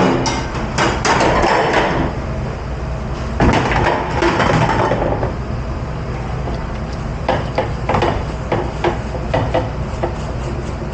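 Dishware and kitchen gear being handled in a dish pit: repeated knocks, clanks and clinks, busiest near the start and again around four seconds in, over a steady low machine hum.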